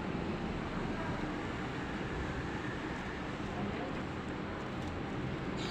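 Steady low background hum and hiss, with one short high lovebird chirp at the very end.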